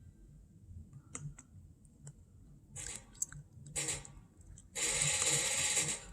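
A few light clicks, then short bursts of noise; the longest and loudest lasts about a second near the end.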